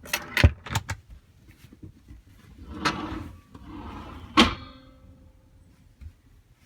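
A motorhome's interior door or cupboard being handled: a few sharp clicks, a brief sliding rub, then a sharp knock as it shuts or latches about four seconds in.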